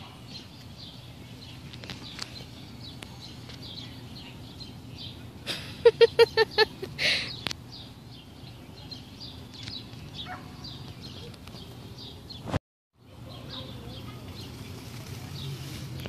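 Small birds chirping steadily. About six seconds in, a large bird in the pen gives a loud, rapid series of about six honking calls, then one harsher squawk. The sound cuts out for a moment near the end.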